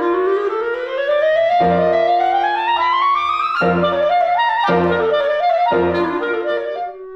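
Solo clarinet playing a long, smooth upward glissando lasting about three and a half seconds, then short rising stepwise phrases. Low piano chords are struck about once a second beneath it. It drops to a quieter held note near the end.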